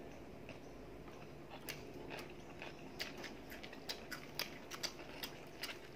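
Close-up chewing of a mouthful of fried fish: a string of faint, irregular crunching clicks.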